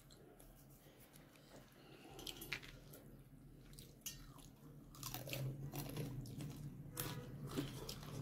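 A person eating rice with fish curry: soft chewing and mouth smacks and clicks, getting busier about halfway through.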